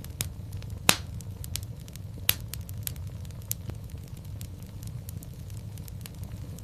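Wood fire crackling in a fireplace: a steady low rumble of the flames under a scatter of small sharp snaps, with two louder pops about a second in and just after two seconds.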